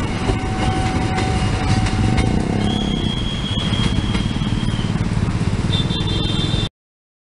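A passing train rumbling over the rails as its last carriage clears a level crossing, then a crowd of motorcycles running and moving off across the tracks. A steady high tone sounds for about two seconds midway and a shorter one near the end, and the sound cuts off abruptly just before the end.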